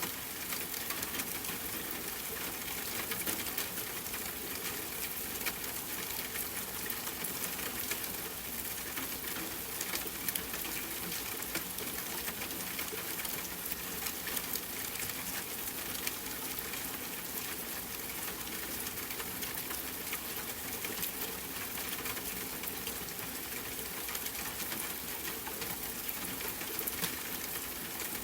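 Steady rain pattering on a tent, mixed with the small crackles and pops of a campfire.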